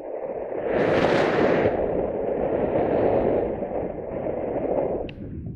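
Wind buffeting the microphone: a steady rushing roar that swells into a harsher gust about a second in and falls away about five seconds in.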